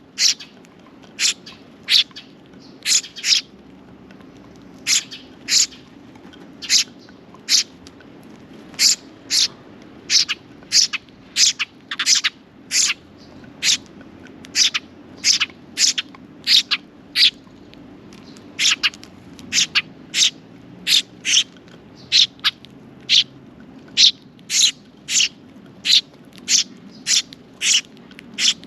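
Sparrow chirping over and over: short, sharp chirps at about one and a half a second, often in quick pairs.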